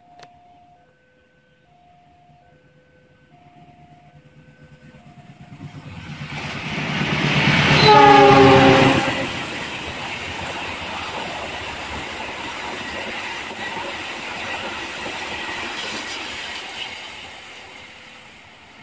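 A diesel-hauled passenger train approaches and passes at speed, its engine rumble growing louder. The horn sounds for about a second around eight seconds in, dropping in pitch as the locomotive goes by, followed by the steady rumble and clatter of the coaches rolling past, which fades near the end. A repeating two-note warning tone sounds during the first few seconds.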